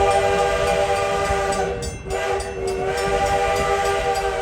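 Train whistle sounding a multi-note chord in two long blasts, with a short break about two seconds in, over the low rumble of the moving train.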